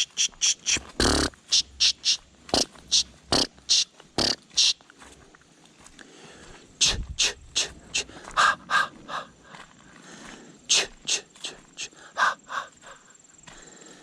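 Footsteps crunching through dry leaf litter and twigs on a woodland trail: a quick run of crisp steps, about two or three a second, pausing twice briefly.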